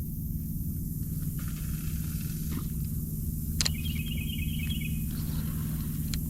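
A steady low mechanical hum, like a motor running, under a light hiss. About halfway through there is a sharp click, then a quick run of high ticks lasting about a second.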